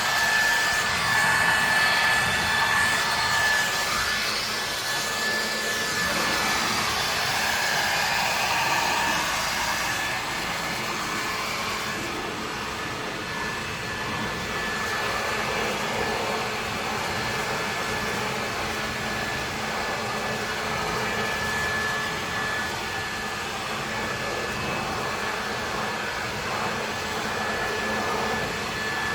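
Ryobi 2000 psi power washer running steadily, a high motor whine over a constant hiss.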